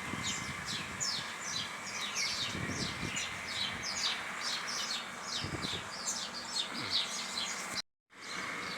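A chorus of small birds chirping, many quick downward-sliding chirps overlapping, over a faint steady high tone. The sound cuts out completely for a moment near the end, then the chirping resumes.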